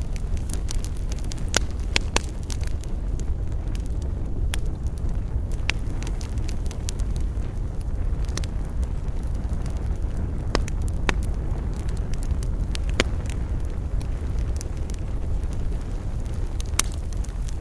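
Wood campfire burning: sharp crackles and pops at irregular intervals over a steady low rumble.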